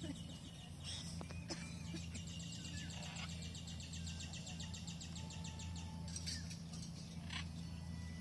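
A bird singing a rapid, high trill of evenly repeated notes that lasts about four and a half seconds, with a few shorter chirps before and after, over a steady low hum.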